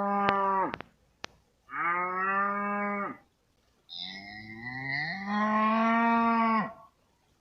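Cow mooing: three moos, the first ending under a second in, the second about a second and a half long, and the last, longest one rising in pitch at its start before holding steady for about three seconds.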